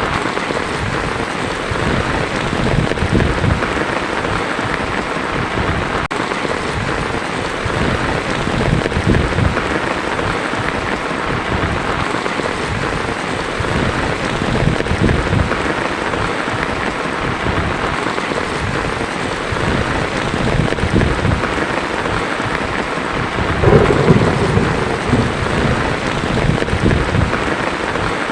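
Heavy rain falling on a tin roof in a steady hiss, with low rumbles of thunder swelling every few seconds, the strongest near the end.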